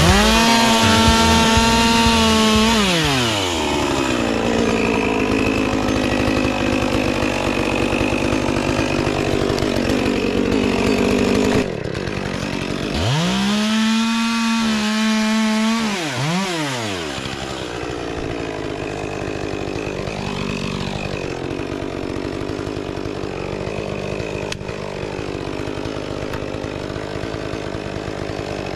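Two-stroke chainsaw cutting wood at full throttle, its note falling away after about two and a half seconds, then a second full-throttle cut about halfway through. For the rest it runs quieter, the engine pitch wandering up and down.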